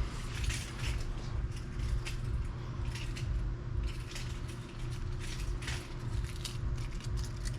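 Scattered metal clicks and rattles from parts of a vending machine being handled and worked at, over a steady low hum.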